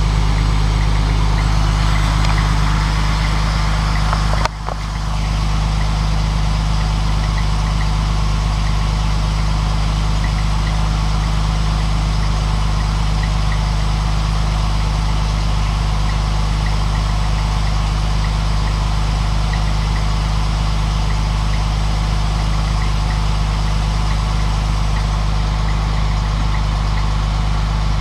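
Newly installed engine in a 1950 Dodge idling steadily, with one brief click and a momentary dip about four and a half seconds in.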